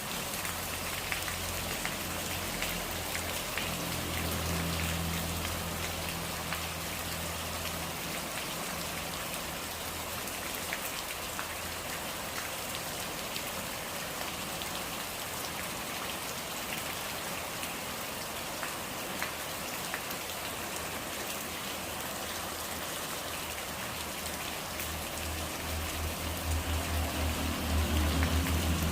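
Steady rain falling, with scattered individual drops ticking on surfaces. A low rumble comes in underneath during the first several seconds, fades, and swells again near the end, where it is loudest.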